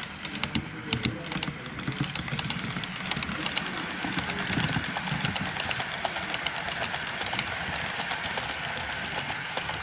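A model diesel locomotive running on the layout: a steady mechanical hum with rapid clicking from the wheels and track.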